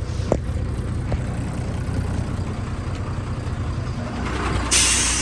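Truck's diesel engine idling steadily, with two light clicks in the first second and a half, then a sudden loud hiss of released air near the end.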